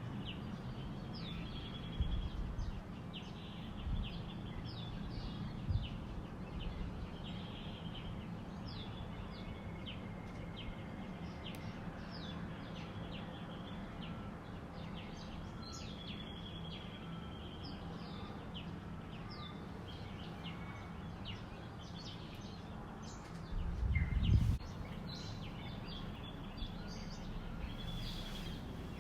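Several birds chirping and calling in a dawn chorus, short calls scattered throughout over a steady low background rumble. A brief, louder low rumble comes about three-quarters of the way through.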